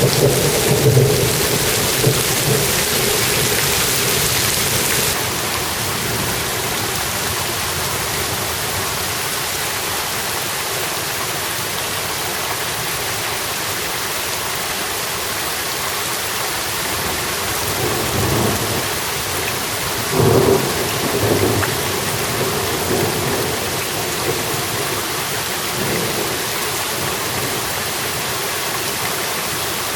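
Steady rain falling, slightly harder for the first five seconds, with a few short rumbles of thunder; the loudest comes about twenty seconds in.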